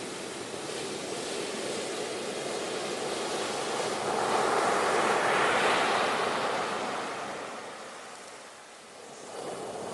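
Ocean surf: a wave swells to a peak about halfway through, then washes back and fades before the next one rises near the end.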